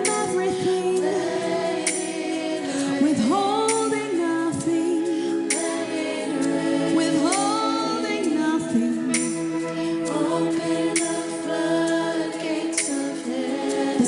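Live worship music: voices singing drawn-out, wordless sliding lines over held chords, with a light percussion hit about every two seconds.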